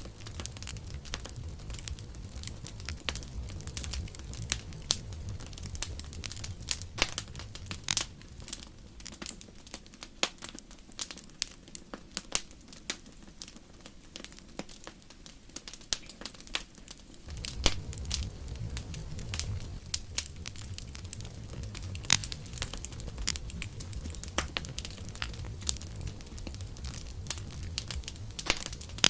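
Campfire crackling, with frequent sharp, irregular pops of burning wood over a low rumble that drops away for several seconds in the middle and then comes back.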